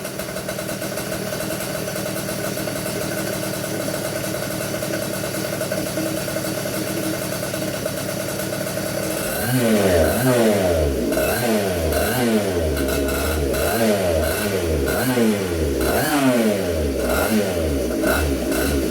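Freshly rebuilt 142cc Komet K30 vintage two-stroke kart engine running on methanol, being heat-cycled to break in its new piston. It holds a steady speed for about nine seconds, then the throttle is blipped over and over, the pitch rising and falling in quick repeated revs.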